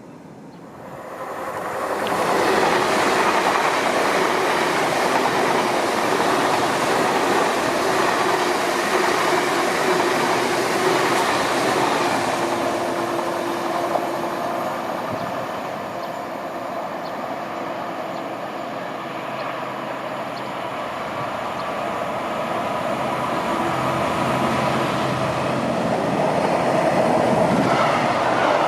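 A train running along the rails, with wheel and track noise. It comes up loud about two seconds in, eases off in the middle and builds again near the end.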